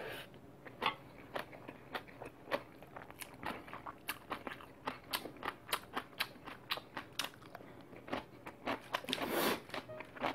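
Close-miked chewing of seasoned soybean-sprout bibimbap: crisp, uneven crunches several times a second, with a short hissing noise about nine seconds in.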